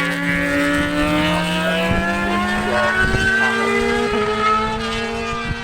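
Racing motorcycle engines, more than one at a time, running under power with their pitch rising steadily as they accelerate. Wind buffets the microphone underneath.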